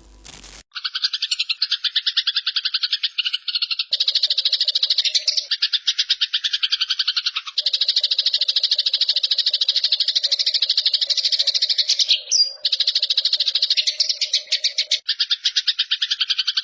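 Eurasian tree sparrow (burung gereja) giving a fast, harsh, unbroken chattering call, the 'nyerecet' fighting chatter, with a couple of brief pauses near the end.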